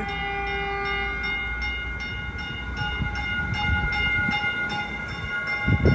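Caltrain Stadler electric multiple unit rolling into the station: a low rumble under several steady held tones, with short regular strikes about two to three times a second.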